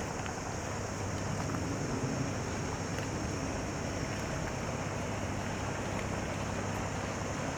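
Harbour waterfront ambience: a steady low drone of boat engines, with a constant high hiss over it.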